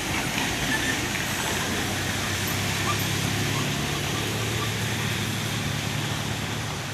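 Truck engine running with a low steady hum that becomes stronger from about halfway through, over a constant wash of road traffic noise.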